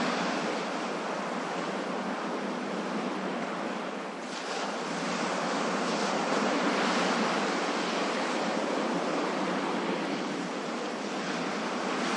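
Ocean waves breaking and washing in a continuous surf noise, easing slightly about four seconds in and then swelling back.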